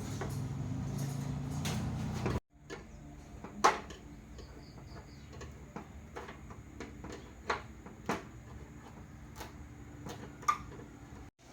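Scattered light clicks and a few sharper knocks of handling, over a low hum. The sound cuts out abruptly twice, once about two seconds in and again near the end.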